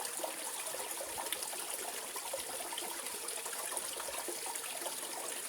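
Mountain valley stream flowing over rocks: a steady rush of water with many small gurgles and splashes.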